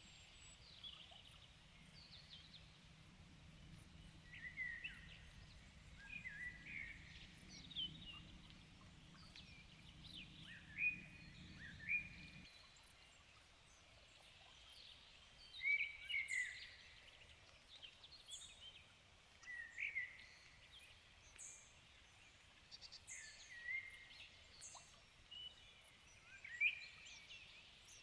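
Several birds singing in the evening, a steady run of short, quick song phrases with thin, very high notes among them. A faint low hum underneath stops suddenly about twelve seconds in.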